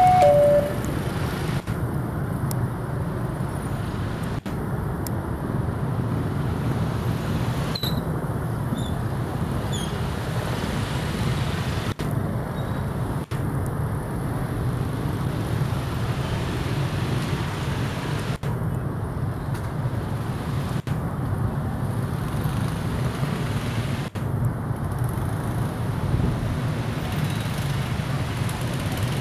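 Diesel-hauled passenger train pulling away over the points, a steady low rumble. Its two-tone horn stops just under a second in.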